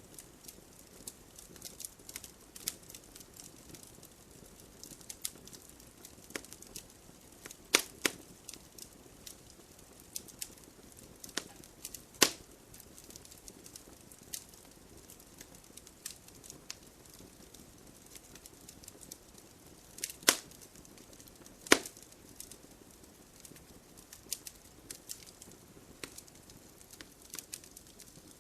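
Wood fire in a fireplace crackling: burning logs give off irregular small snaps over a faint hiss, with a few louder pops about eight, twelve, twenty and twenty-two seconds in.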